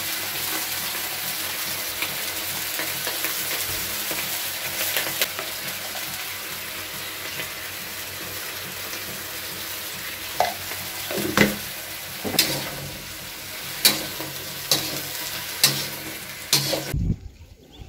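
Stir-fry sizzling in a wok on a gas stove, a steady frying hiss. From about ten seconds in, a metal spatula scrapes and clacks against the wok several times as mushrooms, green beans and corn are tossed. The sizzling cuts off near the end.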